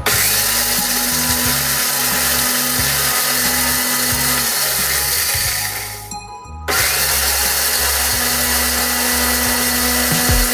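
Panasonic electric blender with a dry-grinding jar running at full speed, grinding coriander and cumin seeds to powder. It stops for about a second partway through, then starts again.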